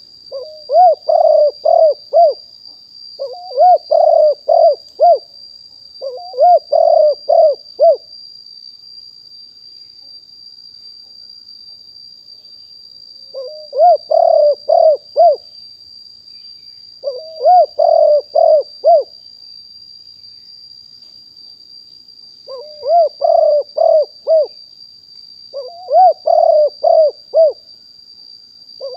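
Spotted dove cooing: seven phrases of four or five coos each, with a longer pause near the middle and another phrase starting at the very end.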